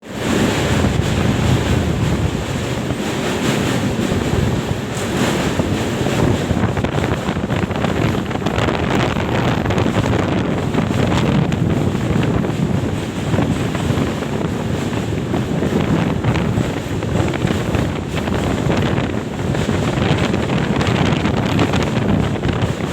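Wind buffeting the microphone, a loud, steady rushing noise heaviest in the low range.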